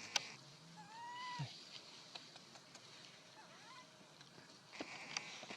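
A young monkey gives one high, arched whining cry about a second in, followed later by a fainter short call. A few sharp clicks come in near the start and near the end.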